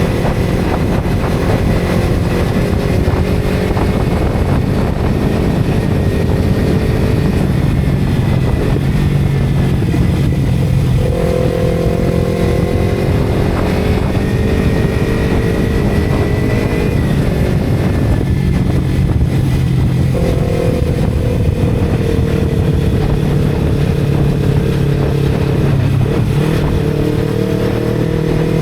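Motorcycle engine running steadily while riding, with a noisy rush of wind and road behind it. The engine pitch jumps up about a third of the way in and again past two-thirds, sagging slowly after each.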